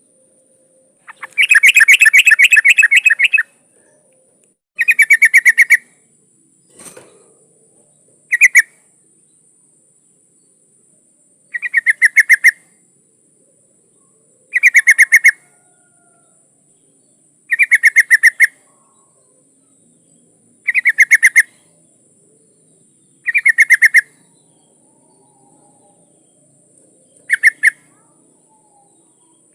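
Sooty-headed bulbul (trucukan) giving short, loud bursts of rapid chattering notes, about one phrase every three seconds. The uploader presents it as a female calling for a male. A single soft knock falls about seven seconds in.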